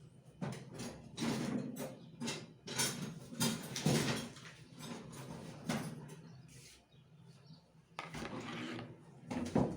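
Irregular knocks and scrapes of kitchen utensils and containers being handled while ingredients are measured out, with a quieter lull partway through.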